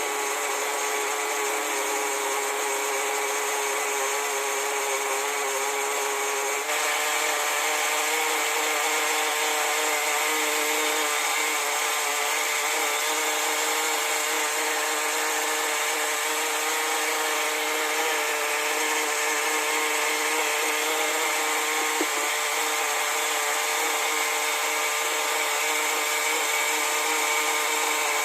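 Small .15 nitro glow engine of a 1/10 RC monster truck running steadily at low revs during break-in. About seven seconds in its note steps up slightly and gets a little louder.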